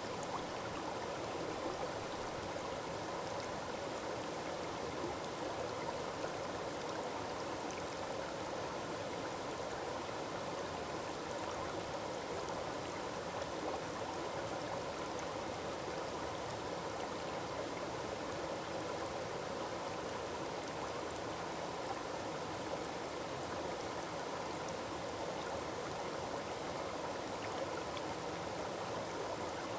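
Small forest waterfall splashing and rushing in a steady, even stream of water noise.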